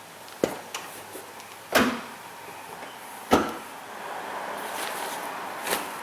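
Four separate sharp knocks and clunks of hard parts being handled and set in place inside a car, the second the loudest with a short ring.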